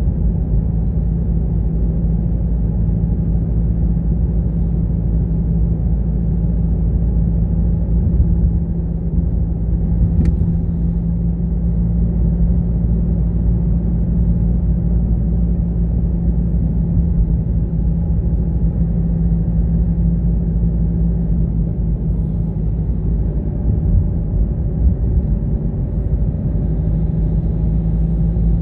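Car driving at a steady pace: an even, low rumble of engine and road noise with a steady low hum.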